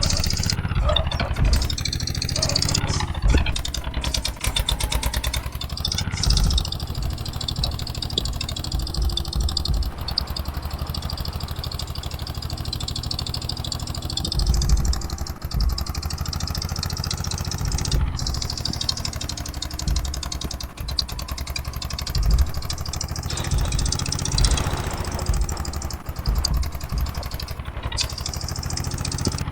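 Eicher 241 tractor's single-cylinder diesel engine running with a steady low rhythmic beat and some clatter.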